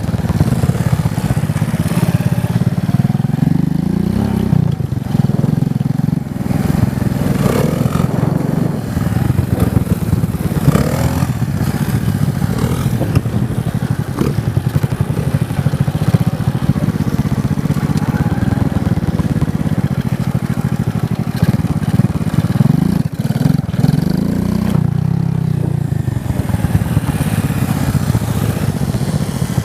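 Motorcycle engine running steadily, its pitch rising and falling a few times as it is revved.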